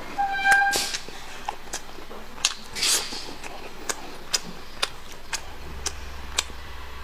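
Close-miked eating sounds: a person chewing food, with scattered sharp wet mouth clicks and two louder noisy bursts, about a second in and about three seconds in. There is a short pitched sound near the start.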